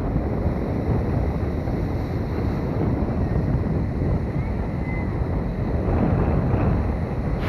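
Strong wind buffeting the microphone, a steady low rumble that swells slightly near the end.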